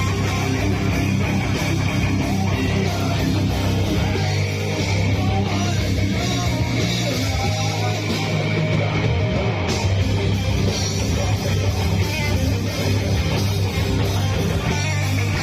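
A rock band playing live, with distorted electric guitar, bass and drums in a heavy, dense sound.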